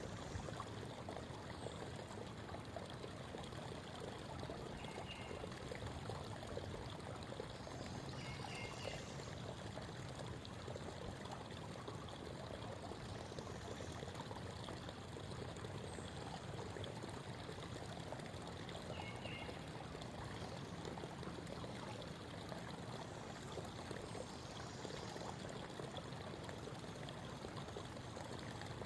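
Creek water babbling and trickling over stones in a steady, even rush, with a few brief faint bird chirps scattered through it.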